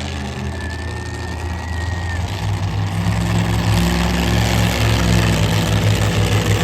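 Monster truck engine running with a deep, steady note, growing louder over the first few seconds and then holding.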